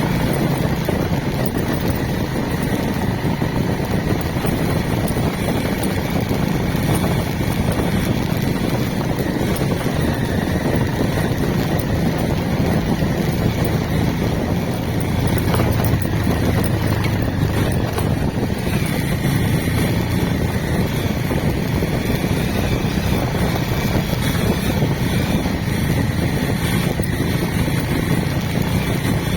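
A vehicle travelling over a rough road: steady engine and road rumble with occasional knocks and rattles.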